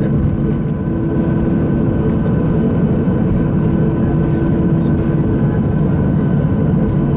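Steady cabin noise of a Boeing 737-600 with its CFM56-7B jet engines running: an even rush of engine and air noise with a few constant hums on top.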